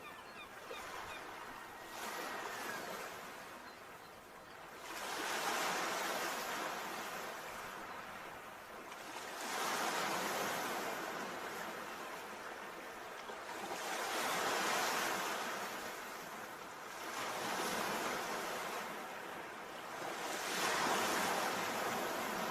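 Sea waves breaking and washing in, the surf rising and falling in a surge every three to four seconds.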